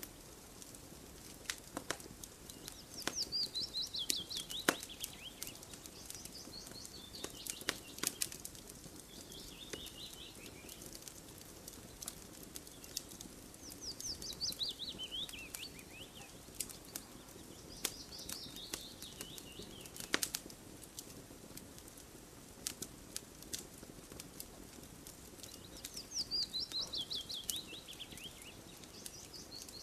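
Campfire crackling with frequent sharp pops over a soft steady hiss. Behind it, a bird repeatedly sings a short song of rapid notes that fall in pitch.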